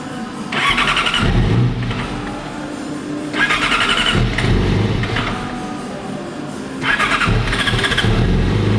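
Yamaha YZF-R6 inline-four being cranked on its electric starter in three attempts, hard to start and slow to catch because the throttle was bumped on the fuel-injected engine, flooding it a little. On the third try, near the end, the engine catches and keeps running through its aftermarket Jardine shorty exhaust.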